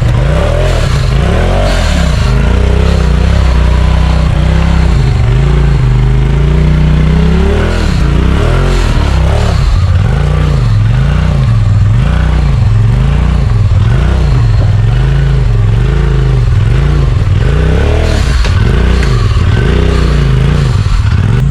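Side-by-side UTV engine revving up and down as it crawls a steep, rough trail. The throttle is worked in slow pulls at first, then in a steady rise and fall about once a second through the second half.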